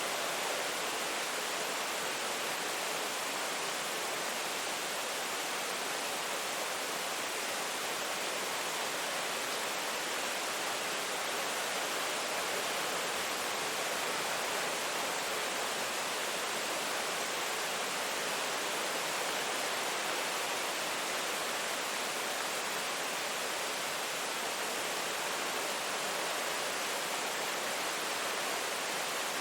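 Steady rain, heard as an even, unbroken hiss with little low end and no separate drops standing out.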